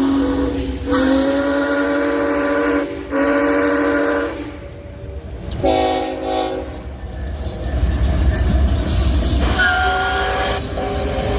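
Locomotive signal sounding a series of long chord blasts, several held notes at once, with gaps between some blasts and a change of pitch in the last ones. A steady low rumble of the train runs underneath.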